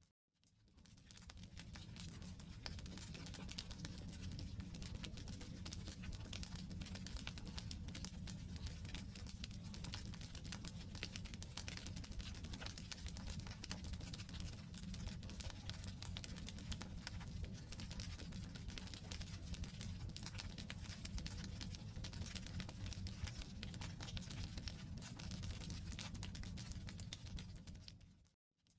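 Wood campfire burning, with dense, steady crackling over a low rumble. It fades in over the first second or two and fades out shortly before the end.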